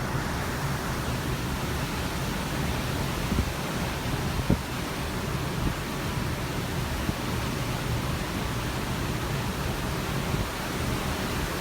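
Steady rushing of sea and wind past a moving cruise ship, with a low rumble underneath and a couple of brief bumps about three and four seconds in.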